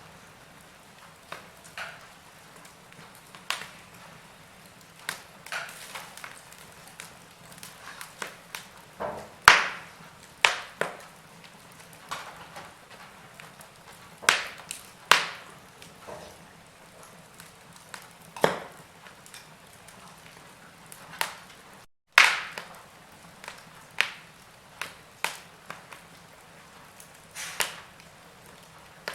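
Burning logs in a fireplace crackling: irregular sharp pops and snaps, some much louder than others, over a faint hiss. About two-thirds of the way through, the sound cuts out completely for a moment.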